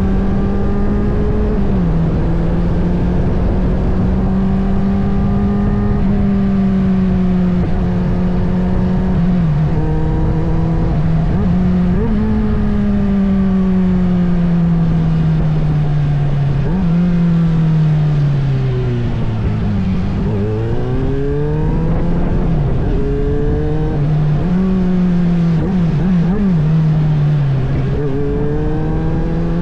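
Kawasaki Z800's inline-four engine on the move: it holds steady revs with a few quick gear changes, slows through the gears to low revs about two-thirds of the way in, then accelerates again, rising in pitch with several upshifts. A steady rush of noise runs underneath.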